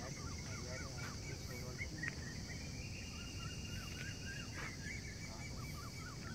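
Birds chirping in quick, repeated short notes over a steady high insect hiss and a low outdoor rumble. A faint, thin, steady high whine runs beneath them, rising slightly in pitch about two and a half seconds in and fading near the end.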